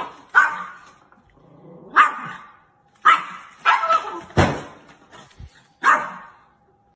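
A dog barking, about six barks at irregular intervals.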